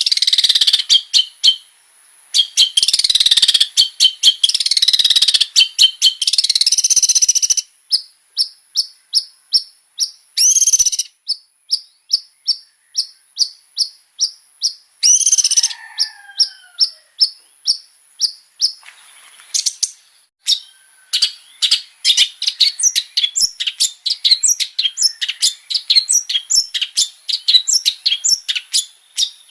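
Long-tailed shrike (cendet) singing hard, with mimicked song material. Bursts of dense chattering give way to a run of short repeated notes, about three a second, then a few downslurred calls, and a fast, dense warble near the end.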